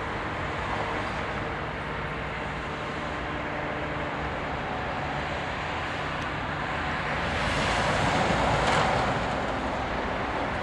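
Diesel freight locomotive running steadily as it hauls a train of empty flat wagons, with the rumble of the wagons rolling on the rails. A louder rushing swell comes about eight seconds in.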